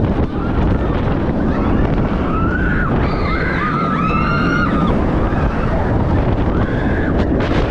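Strong wind buffeting the microphone in a loud, steady rumble. Some high-pitched voices or shouts rise above it in the middle.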